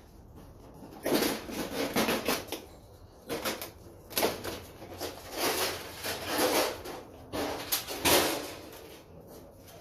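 Metal scraping and clattering as a fluorescent light fixture is pulled apart by hand, in a string of short bursts with brief pauses.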